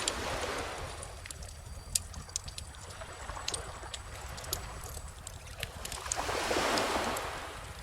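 Beach bonfire crackling with scattered sharp pops over calm ocean waves; a wave swells and washes in about six seconds in, the loudest part.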